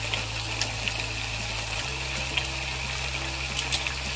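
Chicken pieces frying in oil in a pan: a steady sizzle with scattered crackling pops. Soft background music holds low notes underneath.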